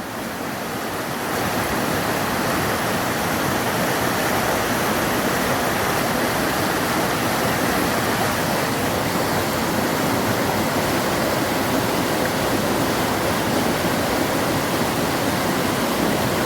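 Waterfall pouring, a steady even rush of falling water that swells slightly in the first second or two and then holds.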